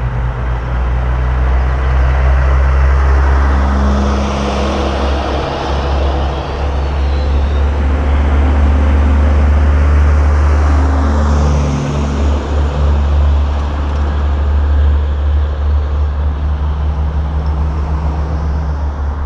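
Semi trucks in a convoy driving past, with a deep, steady diesel engine rumble and road noise that swells twice, about four seconds in and again around ten seconds, as trucks go by.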